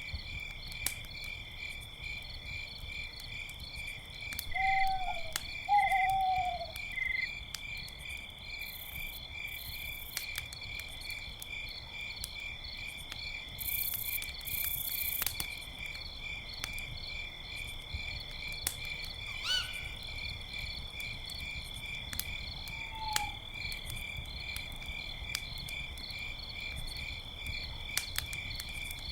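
Crickets chirping steadily in a dense pulsing chorus, with a campfire crackling in sharp scattered pops. A few short, falling hoots from an owl come through, the loudest pair about five to six seconds in and fainter single ones later.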